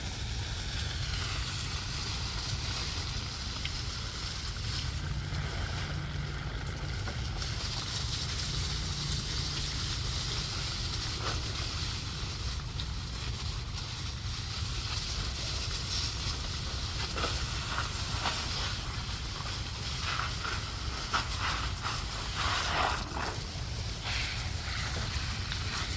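Wind buffeting the microphone: a steady low rumble with a hiss over it, and a few faint knocks in the second half.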